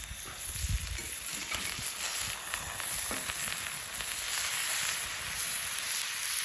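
Steak sizzling over a campfire: a steady hiss with small crackles and pops scattered through it.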